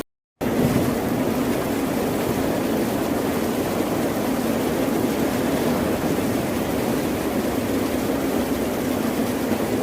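Steady, even rushing noise of ocean surf, broken by a split-second dropout to silence at the very start.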